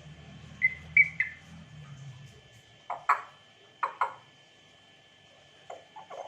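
African grey parrot giving three short whistled notes about a second in, then two pairs of short, sharp clicking calls around three and four seconds, and softer clicks near the end.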